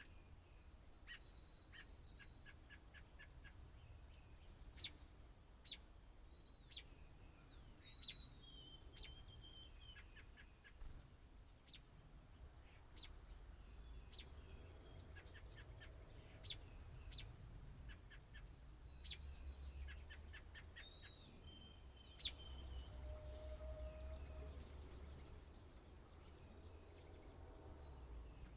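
Faint birdsong from dark-eyed juncos and an American robin: scattered sharp high chips, several quick evenly spaced trills and a few short whistled notes, over a low steady rumble.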